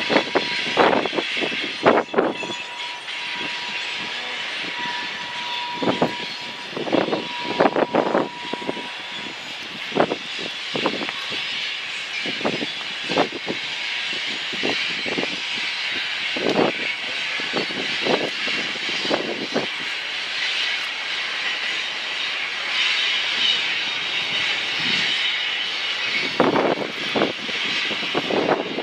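Wind buffeting the microphone in irregular gusts and thumps, over a steady running noise from a passing vehicle.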